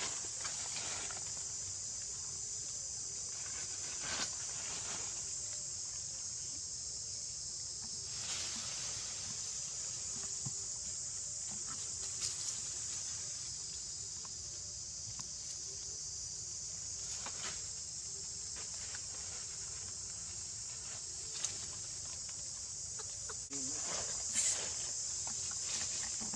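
Steady, high-pitched chorus of insects, with a handful of brief louder calls over it; the loudest comes near the end.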